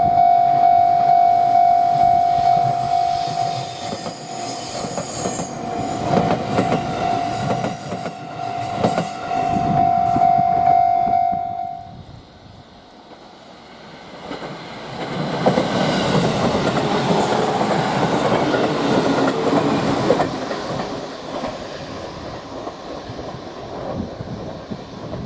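Freight train passing on the Tokaido Line, its wheels clattering over the rail joints. For the first half a steady high tone sounds with it and cuts off suddenly about halfway through.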